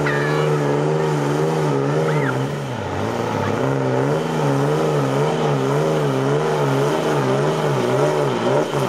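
Diesel pickup truck engine at high revs under heavy load while pulling a sled, its pitch rising and falling about twice a second as the truck bounces and the revs surge.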